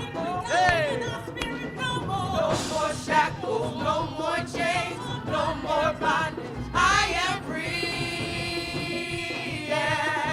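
Gospel worship music: singing with wavering vibrato and runs over instrumental backing, with a sustained held chord a little past the middle.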